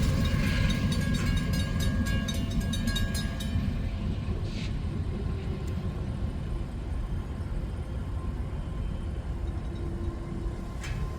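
Freight train rolling past: rapid clicking of wheels over the rail joints for the first few seconds, then only a low rumble that slowly fades.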